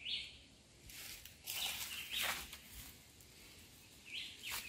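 Birds calling faintly in the garden, a few short chirps, with a few soft rustles of leaves and plant stems as peppers are picked by hand.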